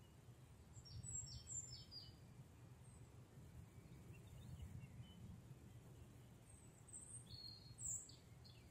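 Faint birdsong: a short phrase of high, quick, falling notes about a second in and another near the end, over a low steady rumble of background noise.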